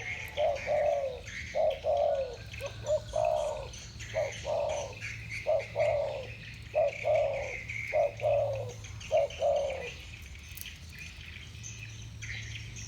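Spotted doves cooing, in the deep, round coo voice that keepers call 'thổ bầu': a long run of short low coos with falling ends that stops about ten seconds in. A higher, steady chirping goes on underneath.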